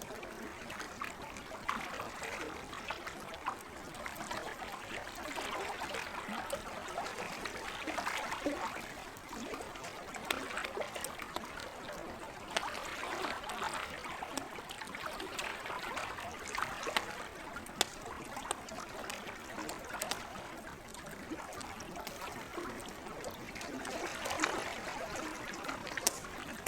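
Campfire crackling, with sharp pops scattered irregularly throughout, over a steady trickle of gentle lake water.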